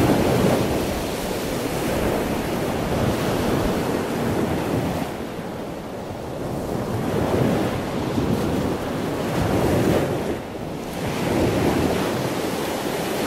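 Rushing water like ocean surf, a steady noise of waves that swells and fades every few seconds.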